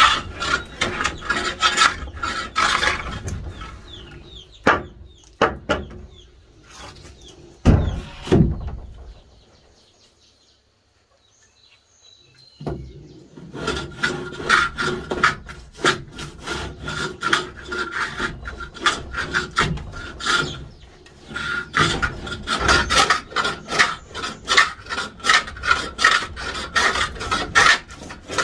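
A hand tool shaving or scraping wood in quick repeated rasping strokes, with a few separate knocks and then a pause of a few seconds partway through.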